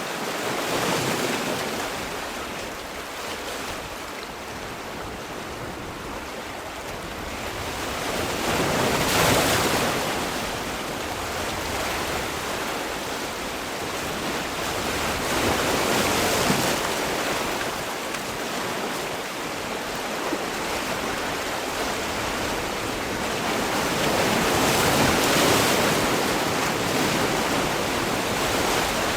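Sea waves breaking on a shore: a steady wash of surf with four swells, each wave rising to a rushing hiss and easing off, about every eight seconds.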